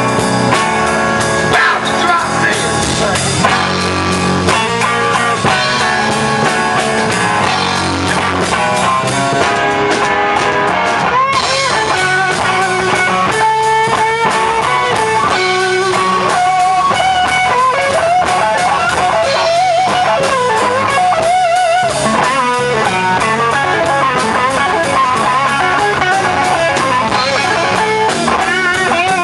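Blues band playing a slow blues instrumental passage: an electric guitar leads with bent, wavering notes over drums.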